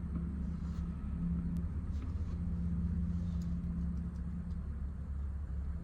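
Steady low rumble with a droning hum that fades in and out, and a few faint clicks.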